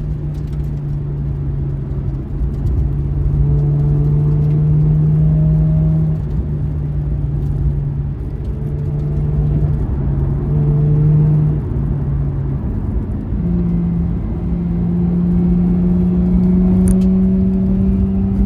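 Mazda RX-8's two-rotor rotary engine, fitted with a Fujita Engineering SonicMuffle exhaust, running steadily under way at a fairly even pitch. The note briefly drops out about twelve seconds in, then the revs climb slowly toward the end.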